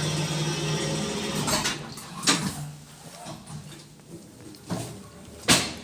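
Aritco platform lift's drive running with a steady hum, which stops about two seconds in, followed by three sharp clunks, the last one the loudest.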